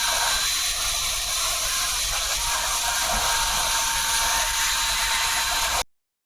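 Loud, steady mechanical rushing noise with thin high whining tones, cut off suddenly near the end.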